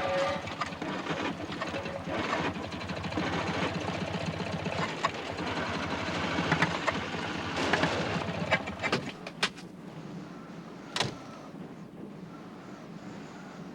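Small van engine chugging at a fast even beat, then falling away about nine seconds in, followed by a few sharp clicks and knocks.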